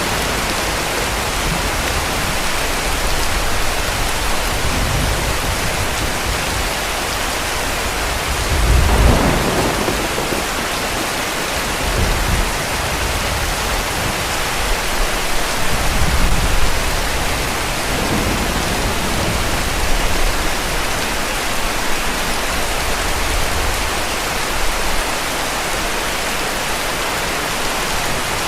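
Heavy rain falling steadily, with low rolls of distant thunder rumbling through it. The loudest roll comes about nine seconds in, with weaker ones a few seconds apart after it.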